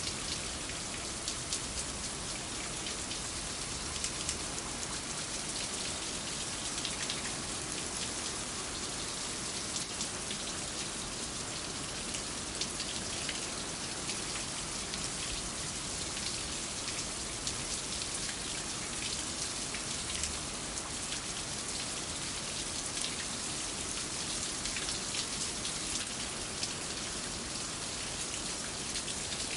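Steady rain falling, with many individual drops ticking on hard surfaces.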